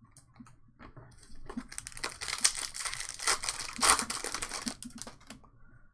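A trading-card pack wrapper being torn open and crinkled: a dense crackling rustle that builds about a second and a half in and fades near the end.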